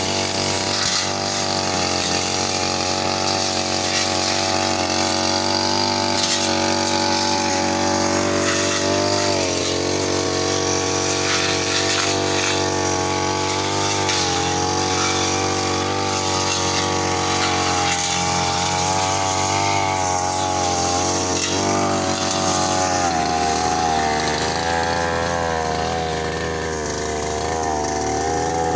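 Petrol brush cutter (grass-cutting machine) running steadily while clearing weeds. Its engine pitch shifts a couple of times as the load changes.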